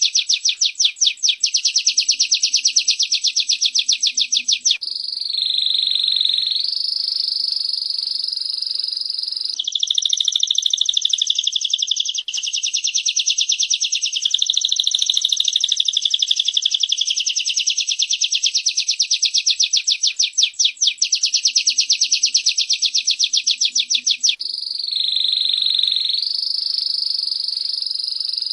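A female prenjak (prinia) and a canary singing: a very fast, even, high trill alternates with smoother held, warbling high song. The same passage comes round again after about 20 seconds, as in a looped recording.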